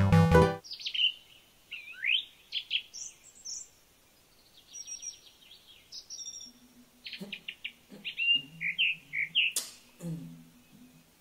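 Small birds chirping and twittering in short, repeated calls after music cuts off in the first second, with a couple of sharp knocks in the second half.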